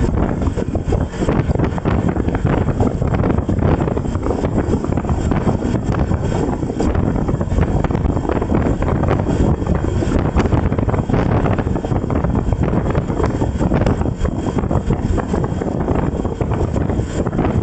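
Steady wind buffeting the microphone: a loud, even rushing rumble, heaviest in the low end, with no distinct tones.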